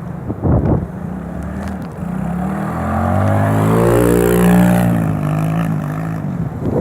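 Small Kawasaki 110 dirt bike engine passing close by, growing louder, at its loudest about four seconds in and dropping in pitch as it goes past, then fading away. A brief gust of wind buffets the microphone about half a second in.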